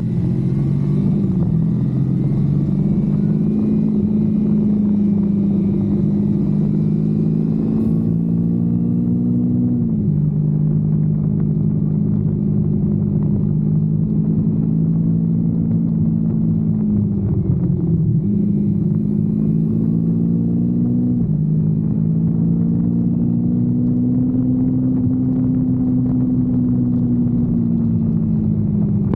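Kawasaki Versys-X 250's parallel-twin engine running under way on the road, its note fairly steady with a low rumble of wind and road noise beneath. The pitch steps down sharply about a third of the way in, and dips and climbs again later, as the rider changes gear.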